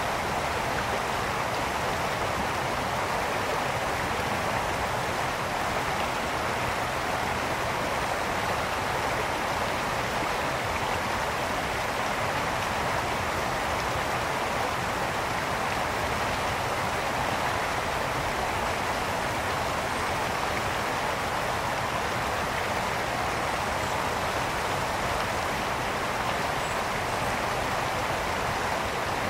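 Mountain brook flowing: a steady rush of water over stones, even throughout. A few faint, tiny high chirps sit above it, likely small birds.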